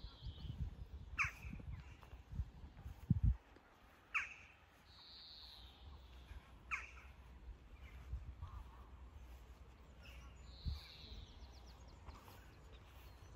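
Birds calling outdoors. There are three sharp falling calls a few seconds apart, and between them longer, higher calls.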